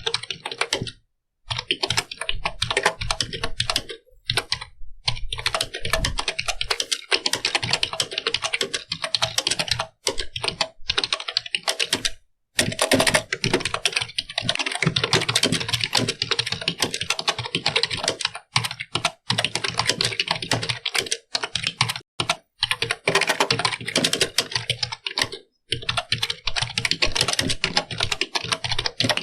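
Computer keyboard being typed on: fast, continuous key clicks in runs, broken by brief pauses every few seconds.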